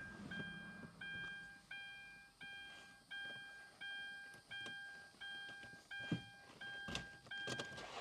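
A car's electronic warning chime dinging over and over, about three dings every two seconds, each ding fading away. A few sharp clicks come near the end.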